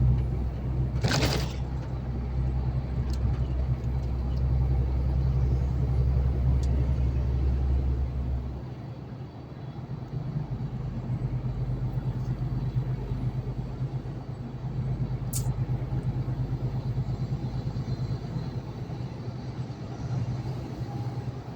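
A truck's engine and road noise drone steadily inside the cab. There is a short knock about a second in, and the deepest part of the rumble drops away about nine seconds in.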